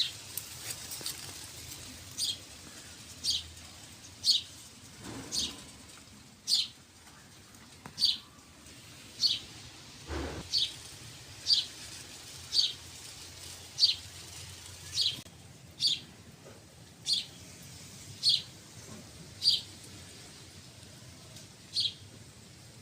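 A bird repeating a single short, high chirp about once a second, evenly and persistently. A soft low bump sounds twice under it.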